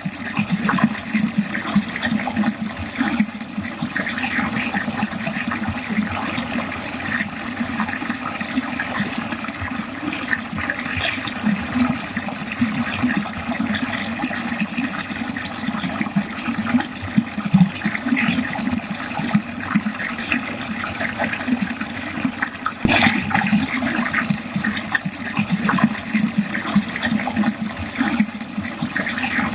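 Water running continuously down a drain, a steady rushing and gurgling flow.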